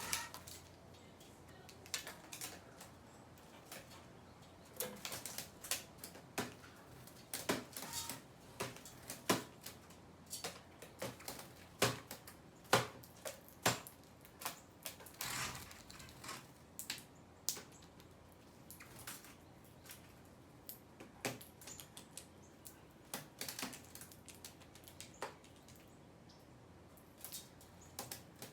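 Irregular sharp taps and clicks, several a second at the busiest, of birds pecking at seed.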